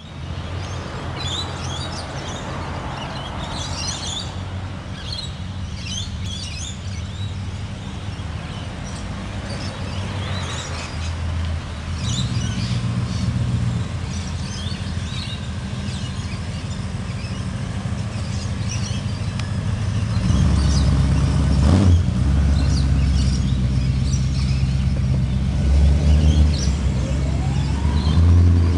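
Hot rod engines rumbling as the cars drive slowly past one after another, louder in the second half, with a rising rev near the end. Birds chirping, mostly in the first half.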